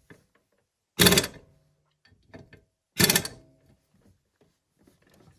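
Two loud knocks about two seconds apart, each ringing out briefly, with faint clicks and rattles between them.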